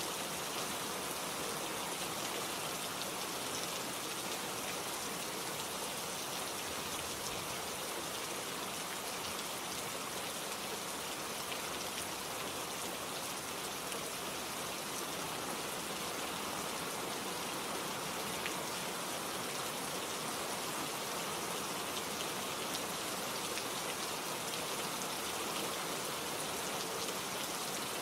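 Steady rainfall, with drops pattering on surfaces and foliage in an even hiss with scattered individual drop ticks.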